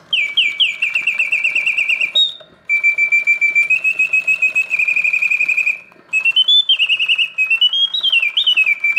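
1967 Reuge mechanical singing bird cage, its bellows-blown whistle singing in rapid trills and sliding warbles. Phrases are separated by short breaks about two and six seconds in. The birds sing with full voice, hitting the proper oscillating notes.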